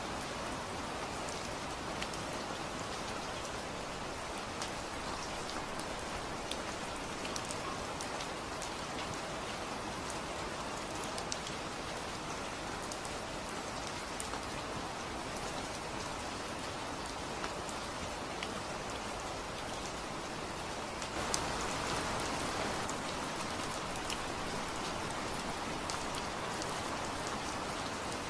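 Steady rain falling, with many single drops ticking sharply over the even hiss. The rain swells a little louder for a couple of seconds about three quarters of the way through.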